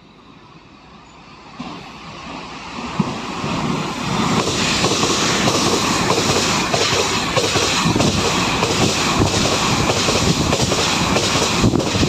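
A train approaching and passing close by. It grows louder over the first four seconds, then holds a loud, steady rush of wheel and rail noise with continuous clatter.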